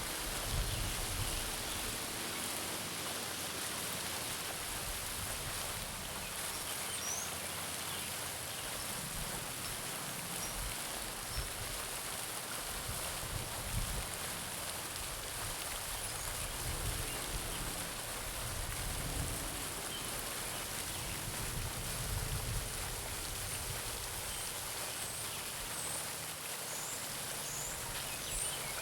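Garden pond fountain splashing steadily into the pond, with a few faint bird chirps over it.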